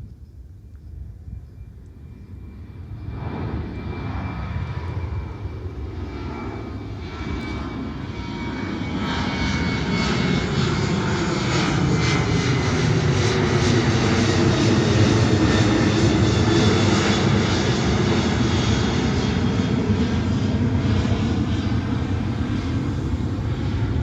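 Boeing 737 jet airliner's engines as it flies past close by. The noise swells from faint to loud over about ten seconds, then holds as a loud rumble with a thin whine over it.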